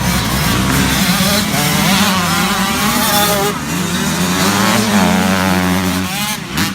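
Several small dirt bike engines revving together, their pitches rising and falling as the riders work the throttle.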